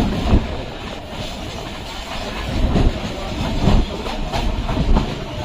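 Electric suburban train running on the rails: a steady heavy rumble with the wheels knocking sharply over rail joints every second or so.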